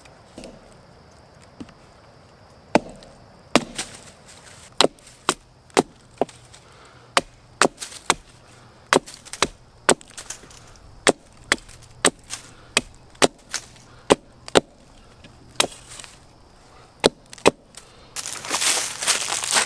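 Wood being chopped or split: a long series of sharp, separate woody strikes, roughly one to two a second. Near the end there is a louder stretch of rustling noise.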